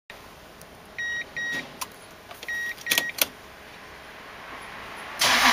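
Short electronic warning beeps sounding in two pairs, with a few sharp clicks of the ignition switch and relays. About five seconds in, the Toyota Granvia's 5VZ-FE V6 is cranked and starts with a sudden loud burst.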